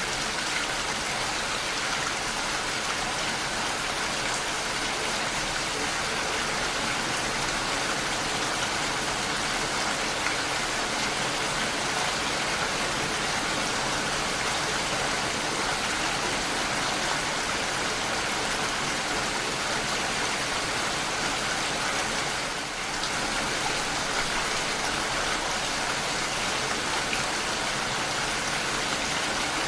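Steady rain: an even hiss of falling drops, dipping briefly in level about three quarters of the way through.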